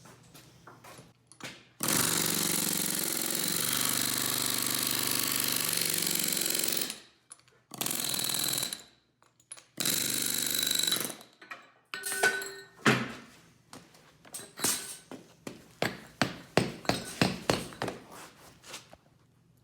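Pneumatic air hammer rattling against the golf cart's broken axle castings to knock them apart: one long burst of about five seconds, then two shorter bursts. It is followed by a quick run of sharp knocks.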